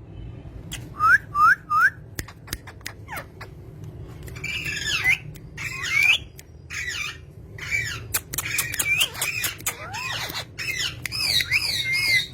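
A bird calling: three quick rising chirps about a second in, then a busy run of squawks and chirps with sharp clicks between them.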